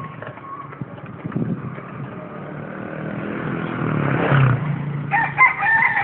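A rooster crowing about five seconds in, over a steady low rumble.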